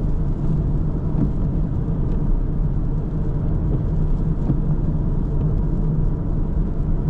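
A car driving along a road, with a steady low rumble of tyres and engine.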